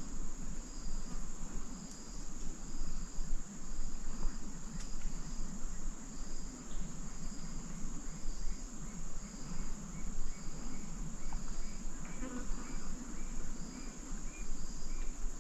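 Insects calling: a steady high-pitched buzz, with a cricket chirping about twice a second over it. About eight seconds in, a second, lower chirping joins at a faster pace, all over a low, uneven background noise.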